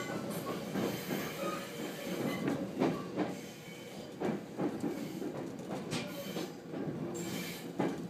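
213 series electric train running, heard from inside the passenger car: a steady rumble with irregular clacks as the wheels pass over rail joints.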